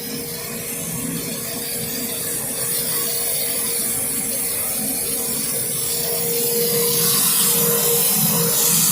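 Grinding machine running during the machining of metal racks: a steady motor hum under the hiss of the wheel on metal, which grows louder near the end.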